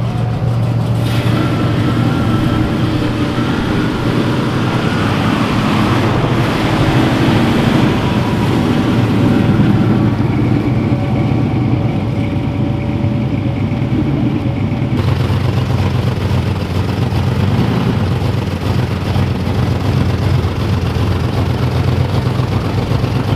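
A car engine running steadily close by, a low, even drone with no clear revving.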